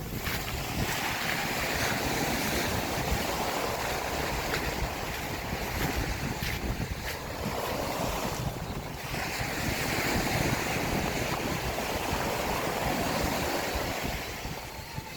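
Sea waves breaking and washing up on a sandy beach, swelling twice with a short lull between, with wind rumbling on the microphone.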